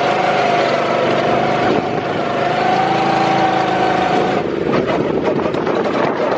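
Go-kart engine running steadily while the kart drives. About four seconds in, the steady engine note drops out, leaving a rougher noise.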